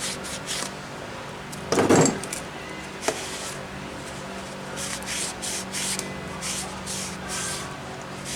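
Parts and tools handled on a workbench: scattered light clicks and scrapes, a louder brief clatter about two seconds in and a sharp click about a second later, over a steady low hum.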